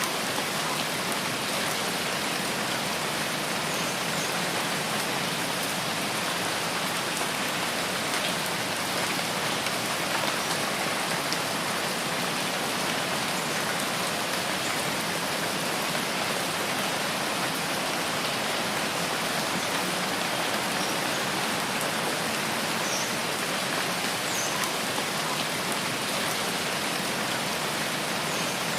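Steady rainfall, a dense even hiss of rain on foliage and ground that holds at one level throughout, with a few faint high blips now and then.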